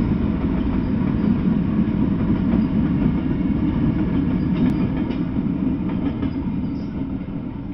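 Diesel freight locomotives running past along the track with a heavy, steady rumble, which fades as the last unit moves away over the final couple of seconds.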